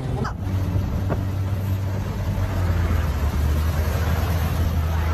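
A vehicle engine running steadily with a low, even hum, which begins abruptly a fraction of a second in.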